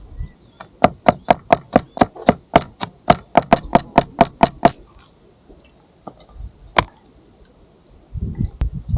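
Knife chopping fast on a cutting board, about five even strokes a second for some four seconds, then a single sharper knock and a few low thuds near the end.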